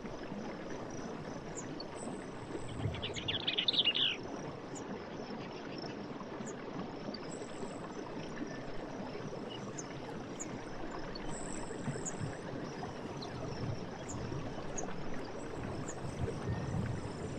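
Night forest ambience: a steady high chorus of insects over an even background hiss, with a bird's rapid trill about three seconds in.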